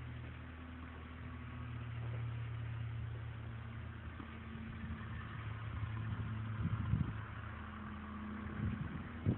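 A steady low engine hum, like an engine running at idle, with a few faint knocks.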